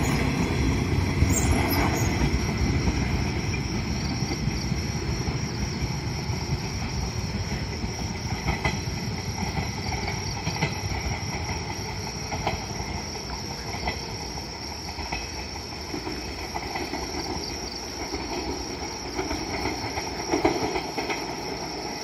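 JR West 115 series electric train pulling away down the line, its running noise and wheel clatter over the rail joints fading steadily as it recedes.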